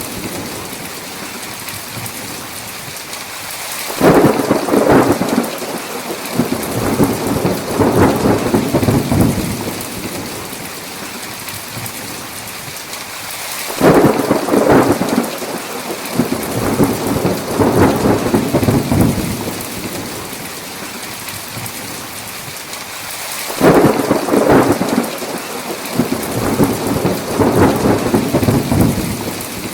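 Thunderstorm: heavy rain falling steadily, with three thunderclaps about ten seconds apart, each cracking suddenly and then rolling on for several seconds before fading back into the rain.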